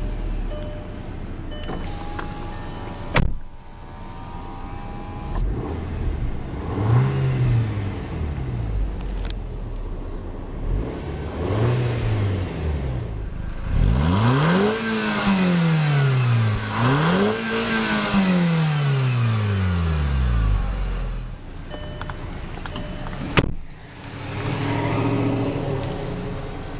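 Turbocharged 2.0-litre four-cylinder engine of a 2008 Volkswagen GTI idling and being revved: two short throttle blips, then two longer revs that climb and fall back to idle. Two sharp clicks, one early on and one near the end.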